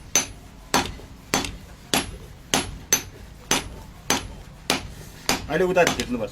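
Hand hammer striking a khukuri blade on an anvil in an even rhythm, about ten sharp ringing metal blows, roughly one every 0.6 seconds, as the blade is forged.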